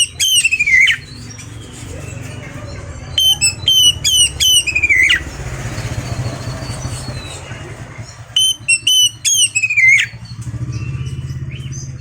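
Oriental magpie-robin (kacer) singing three bursts of quick, varied phrases, each ending in a slurred whistle that falls in pitch, over a steady low hum.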